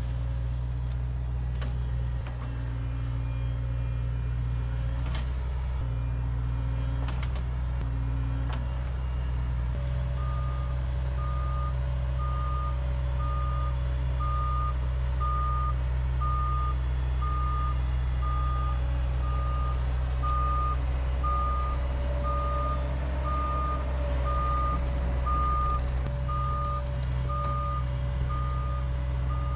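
Heavy equipment's diesel engine running steadily. About a third of the way in, a backup alarm starts beeping about once a second as the machine reverses.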